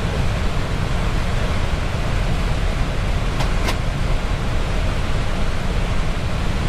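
Steady rushing noise of air over an Airbus A320's flight deck during descent, with two faint clicks about three and a half seconds in.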